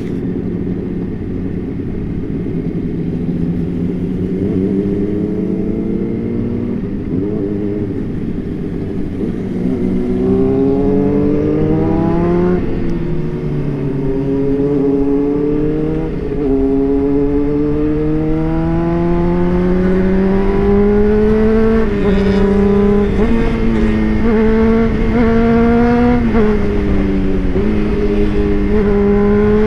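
Honda CBR600RR's inline-four engine under way, its pitch climbing and dropping several times as it accelerates and shifts through the gears, over a steady rush of wind noise.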